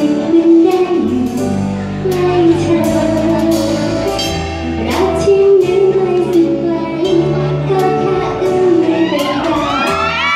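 Live pop band music played through a hall PA, with steady drum beats and a bass line under sustained keyboard and guitar chords. About nine seconds in, high gliding voices rise over the music.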